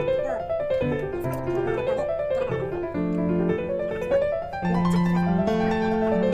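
Background piano music: flowing rising and falling runs over held bass notes.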